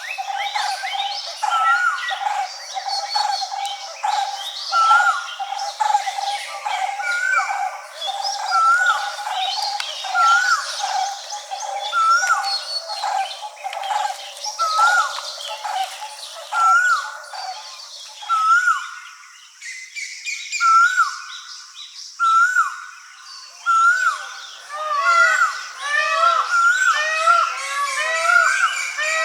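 Birdsong chorus in dry forest: one bird repeats a short call about once a second over a steady lower trilling that stops about two-thirds of the way through. Near the end several more birds join with overlapping calls.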